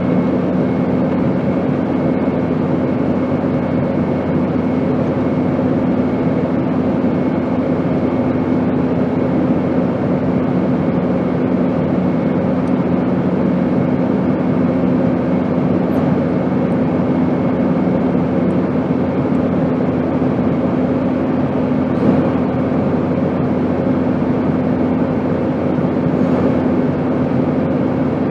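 Steady airplane drone: an even rush of noise with a constant low hum and a faint high whine underneath, unchanging in pitch or level.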